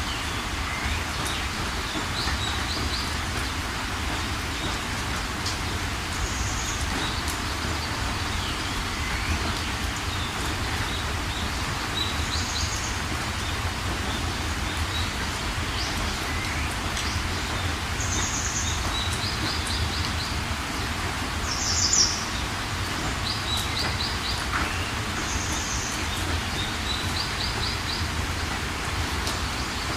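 Steady rain falling, with birds chirping over it: short rapid trills and brief high notes repeating every few seconds, one call louder than the rest about two-thirds of the way through.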